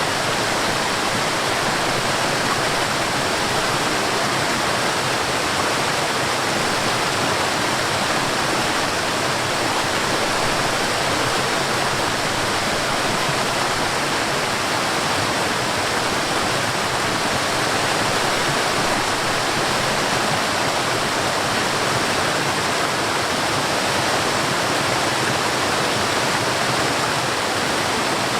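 A forest waterfall: water falling and splashing in a steady, unbroken rush with no changes.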